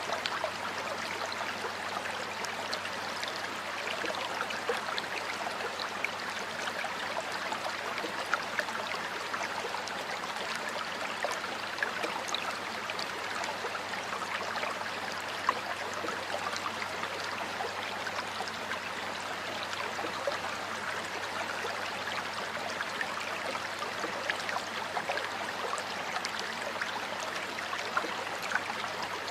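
Water flowing steadily over stones in a stream, an even rushing with small splashes and gurgles throughout.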